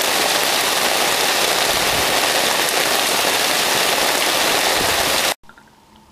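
Heavy rain, a loud steady hiss that cuts off abruptly about five seconds in, leaving faint room tone.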